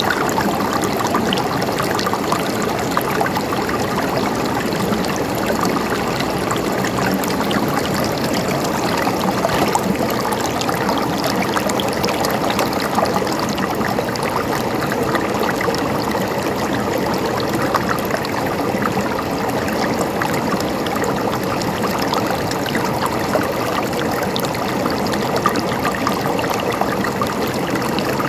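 Mountain stream flowing steadily over rocks, a continuous babble and gurgle of running water.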